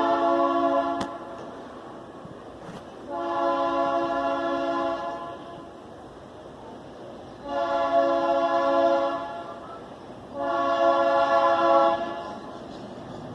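Locomotive air horn of an EMD G22U diesel sounding four long blasts in a steady chord, a few seconds apart.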